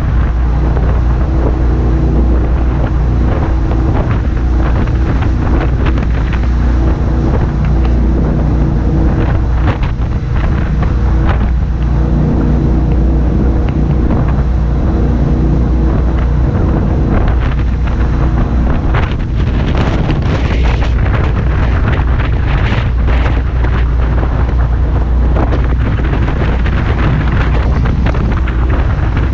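Jet boat running under way on a river: a steady engine drone under heavy wind noise on the microphone and rushing water. There are louder surges of hiss about two-thirds of the way through.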